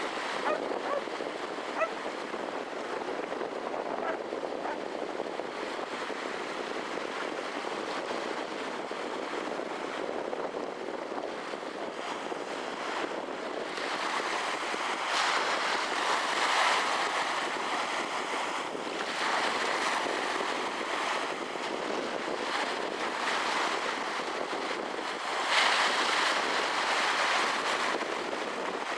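Wind rushing over the microphone at the waterside, an even rushing noise that swells louder in gusts about halfway through and again near the end.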